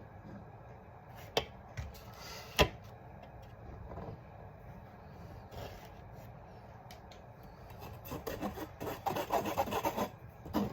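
Two sharp knocks, the louder about two and a half seconds in, then from about eight seconds in a fast, scratchy rubbing of flour being worked through a mesh sieve.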